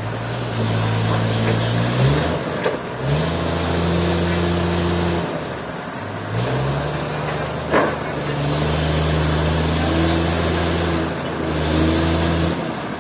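An engine running at changing speed: its pitch rises and holds about two seconds in, falls back, and rises again a little after the middle. There is a single sharp knock near the middle.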